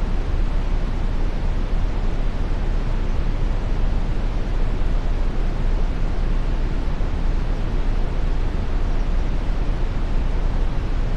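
Steady brown noise: an even, unchanging hiss with most of its weight in the low end, thinning toward the highs.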